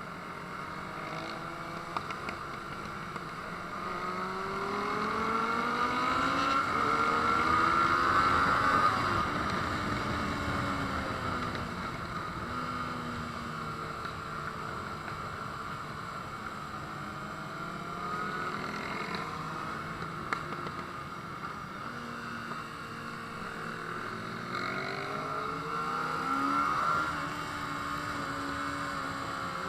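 Motorcycle engine running and revving, its pitch climbing and dropping several times, loudest about six to nine seconds in and again near the end.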